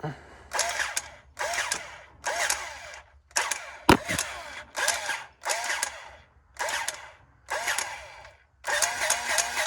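Battery-powered grease gun motor run in short trigger pulses, each a brief whirr that rises and falls, about one per second. Near the end it runs continuously for a couple of seconds, pumping grease into a fitting.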